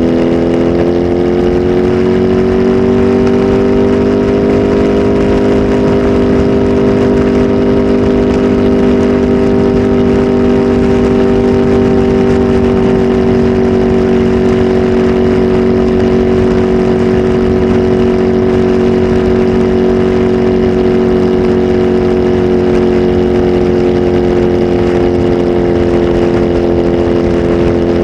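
Kawasaki Z H2 SE's supercharged inline-four running through a full aftermarket exhaust system: the engine note climbs over the first few seconds, then holds at a steady engine speed.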